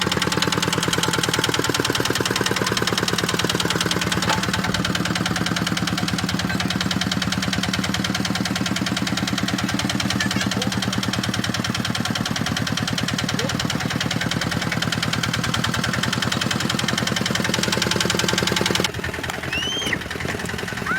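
Kubota tractor diesel engine running steadily with a fast, even firing pulse. It cuts off abruptly about nineteen seconds in, leaving a quieter background with a few short chirps.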